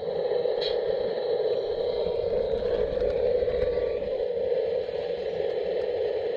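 Garden-scale model train running: a steady whir from the model Erie center-cab locomotive and its cars rolling on the track, with a faint click about a second in.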